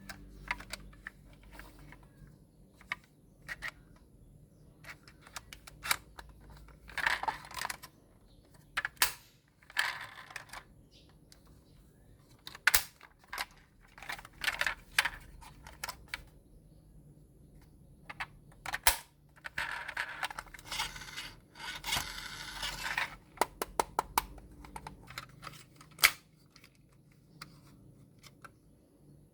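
Hands unboxing toys: packaging rustling and tearing in several stretches, among many sharp clicks and taps of plastic pieces being handled.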